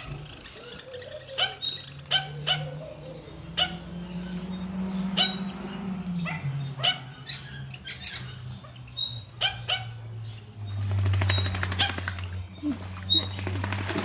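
Aviary birds calling: short, sharp calls repeating irregularly over a low steady hum. About eleven seconds in, a second or so of rapid fluttering.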